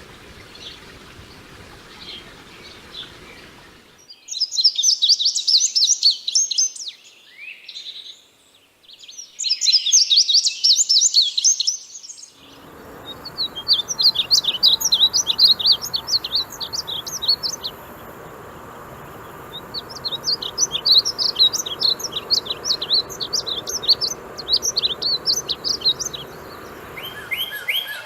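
Songbirds singing in a string of separate recordings: faint chirps at first, then bursts of rapid high twittering, then two long runs of quick repeated trilled notes.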